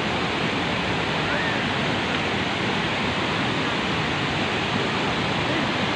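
Steady, loud rush of water from the Vazhachal Falls cascade, an even, unbroken roar of falling water.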